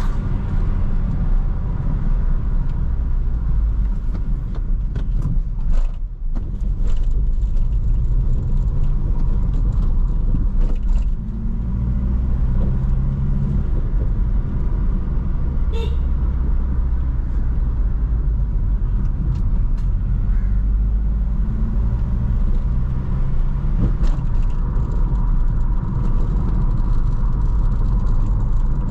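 2004 Toyota Corolla driving, its engine and road noise running steadily. The engine note steps up and down a few times as the car speeds up and changes gear, with a brief drop in level about six seconds in.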